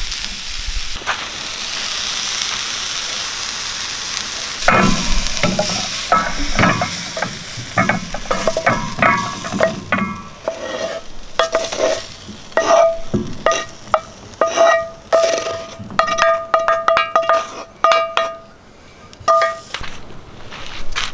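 Food sizzling in a frying pan, then from about five seconds in a metal utensil stirring and scraping in the pan in quick clinks and scrapes, each leaving a short ringing note.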